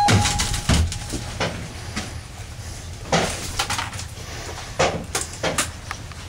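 Scattered knocks and clatters from fish and ice being handled into coolers, over a steady low hum.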